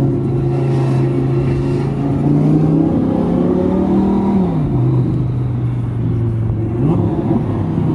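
Twin-turbo V10 engine of a first-generation Audi R8, heard from inside the cabin while driven lightly. The engine note climbs slowly, drops sharply with a gearchange about halfway through, then rises and falls briefly near the end.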